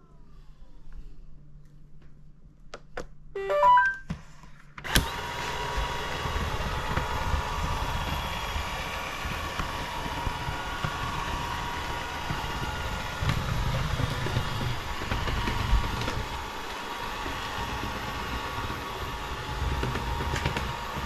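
Robot vacuum cleaner giving a short electronic chime, then about five seconds in its suction motor and brushes start up suddenly and run steadily with a constant whine as it drives itself back to its charging dock after the home button is pressed.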